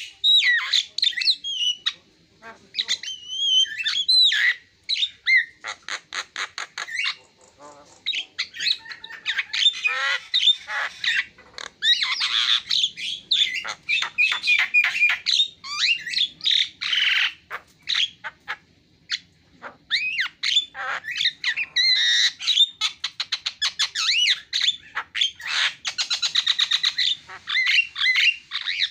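Javan myna (jalak kebo) singing a long, varied song of whistled notes, harsh squawks and fast clicking rattles, broken by a few short pauses.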